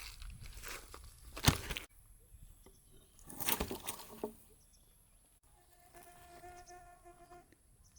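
Rustling and handling noises with a sharp knock, then a steady buzz of even pitch that lasts about two seconds near the end.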